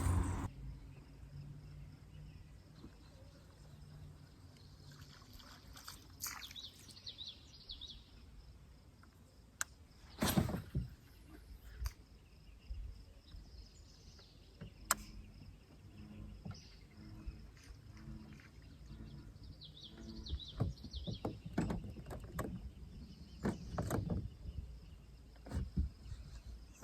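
Quiet outdoor ambience: birds chirping now and then, with scattered knocks and clicks, the loudest about ten seconds in.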